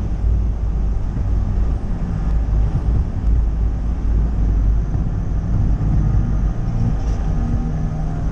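Ford Ranger pickup driving, its engine and road noise making a steady, heavy low rumble.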